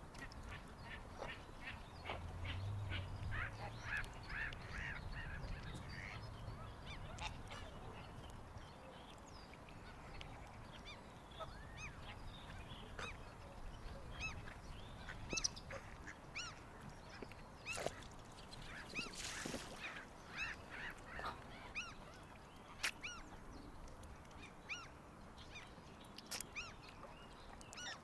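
Waterfowl calling at a lake: many short, repeated calls throughout, with a low rumble in the first few seconds.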